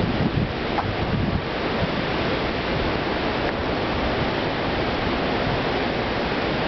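Hurricane-force storm wind rushing steadily, like a jet overhead, with gusts buffeting the microphone in low rumbles.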